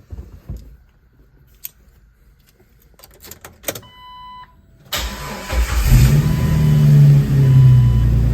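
A few clicks and a short warning chime, then about five seconds in the 2002 Jeep Wrangler Sport's 4.0-litre straight-six cranks and catches on a cold start after sitting overnight. Its revs rise and then hold at a steady idle, while a chime repeats about once a second.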